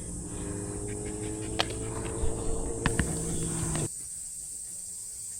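Steady high-pitched buzzing of insects. For the first four seconds there is also a low rumble with a few sharp clicks, and it cuts off suddenly.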